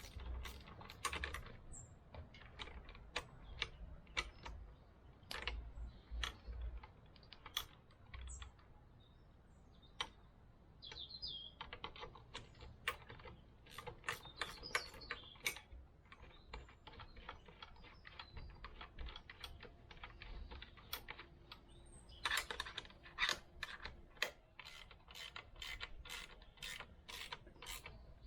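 Hand-tool work on metal parts: irregular sharp metallic clicks and clatter, turning into a quick run of repeated clicks near the end.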